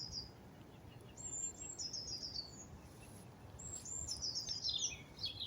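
A small songbird singing faintly: short, high phrases of quick notes that step downward in pitch, repeated about every two seconds.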